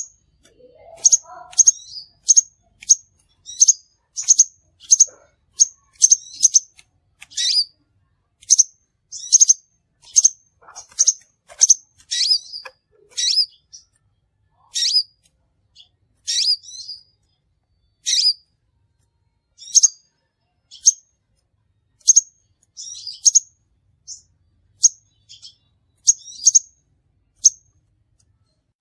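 Crimson sunbird calls: a string of short, sharp, high chirps, some ending in a quick falling flick, repeated about once or twice a second and then more sparsely.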